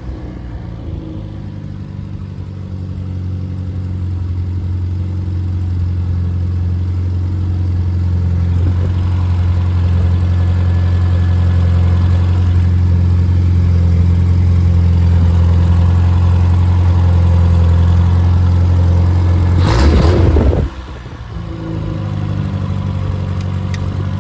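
Freshly rebuilt Triumph Spitfire 1500 inline four-cylinder engine running at a steady speed, gradually getting louder. About twenty seconds in there is a brief loud clatter, and it settles back to a quieter, lower idle.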